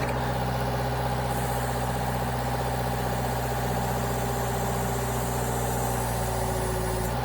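Sawmill engine idling steadily, with a faint high hiss joining it about a second in.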